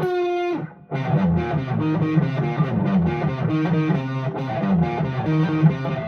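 Solid-body electric guitar played through a mildly overdriven amp: a held note rings and fades, then from about a second in a fast, driving riff of short notes over repeated low notes.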